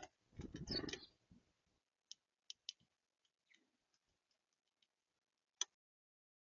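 Birds at a feeder: a brief muffled thump about half a second in, then scattered faint, sharp clicks and taps, with the loudest single click near the end.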